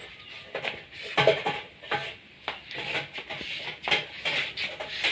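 Irregular clatter and scraping of metal kitchenware, several short knocks and scrapes a second.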